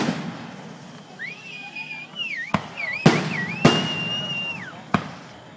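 Fireworks going off: a handful of sharp, separate booms with echoing tails, a cluster of them a little past the middle. A high, wavering whistle sounds from about a second in until near the end.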